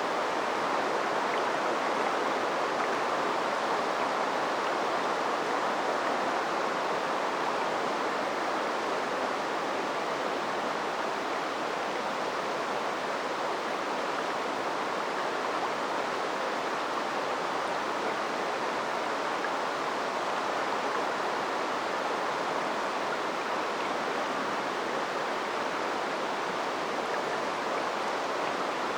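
River water flowing over rocks: a steady, even rushing sound.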